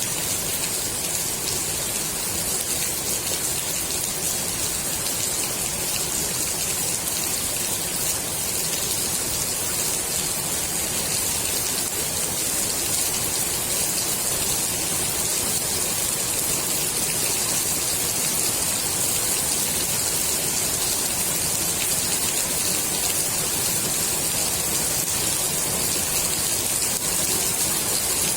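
Steady heavy rain falling on the water of a swimming pool, a dense even hiss of drops.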